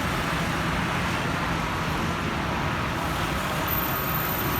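Steady engine roar with a faint high whine that drifts slightly down in pitch.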